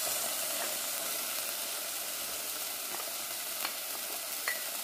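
Chopped onion, garlic and bell pepper sizzling steadily in hot oil in a pot, with a few light taps of a wooden spatula as tomato paste is scraped in from a glass bowl.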